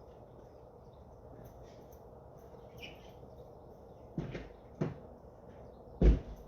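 Three sudden thumps or knocks, the last and loudest near the end, over a low steady background with a few faint high chirps from small birds.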